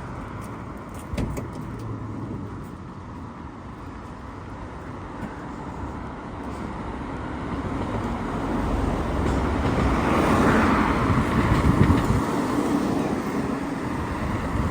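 A car passing on the road, its tyre and engine noise growing louder to a peak about ten to twelve seconds in and then fading, over steady background traffic.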